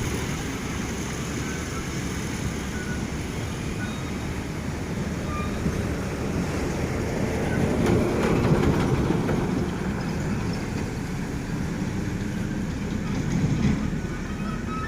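Steady heavy-vehicle and road noise with no clear engine note, swelling about halfway through and briefly again near the end.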